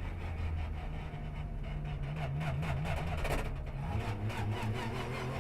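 Porsche race car engine running at low revs, heard from on board, its pitch wavering up and down from about two to three and a half seconds in.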